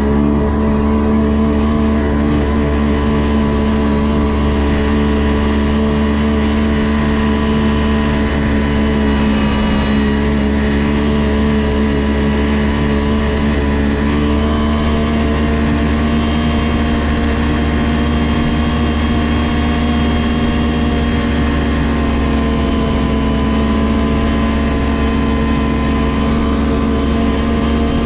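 Ski-Doo GSX 600 HO snowmobile's two-stroke twin engine running at a steady speed under way, its pitch shifting only slightly.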